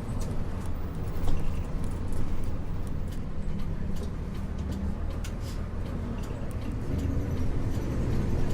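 Isuzu U-LV224N bus's 6QB2 diesel engine heard from inside the cabin while the bus is under way: a steady low drone, with scattered light clicks and rattles.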